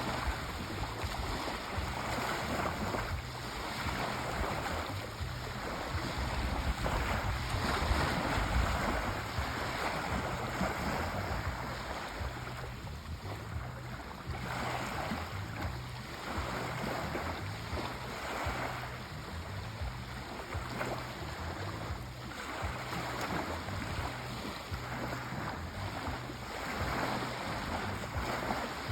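Sea waves washing in, a steady rushing surf that swells and eases slowly, loudest about eight seconds in, over a low rumble.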